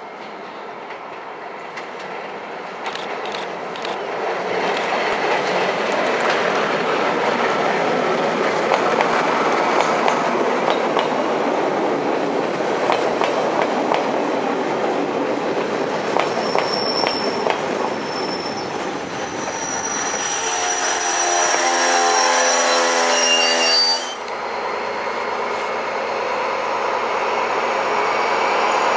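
Regional passenger train of RRR coaches with a BB 67400 diesel-electric locomotive passing close by, growing louder as it comes in, wheels clicking over the rail joints. About 20 s in, high-pitched wheel squeal rings out over the rumble, then cuts off suddenly.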